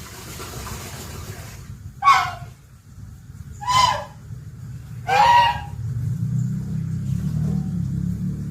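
A bird giving three loud, harsh calls about a second and a half apart. A steady low hum comes in near the end.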